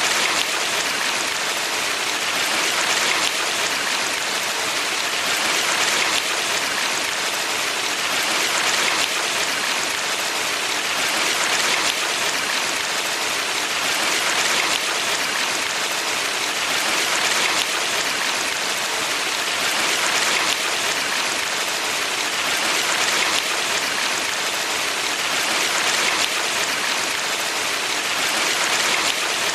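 Water of a valley stream rushing steadily, swelling gently every few seconds.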